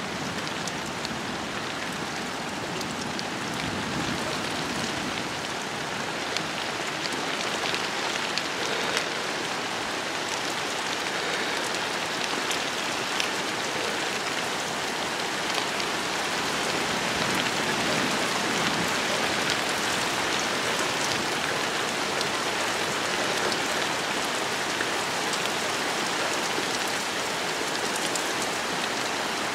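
Steady rain falling, with many individual drops heard as small ticks close by. It grows slightly louder over the first twenty seconds or so.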